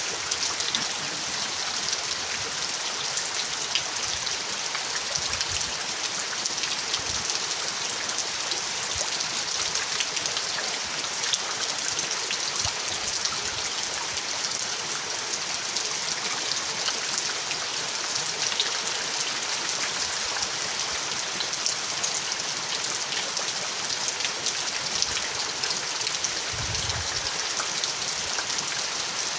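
Steady rain falling, an even hiss with many separate drops ticking through it. About 26 seconds in there is a brief low thud.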